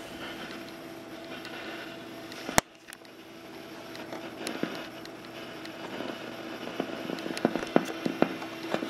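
Crackling and popping from the speaker of a 1966 AWA P2 valve television over a steady hiss and hum: a dirty volume potentiometer making scratchy noise as it is turned. A sharp loud click comes about two and a half seconds in, the noise drops away briefly, then the crackles return.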